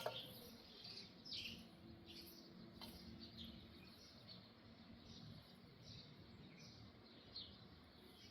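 Faint birds chirping, short falling notes recurring every half second to a second. A single sharp knock comes right at the start.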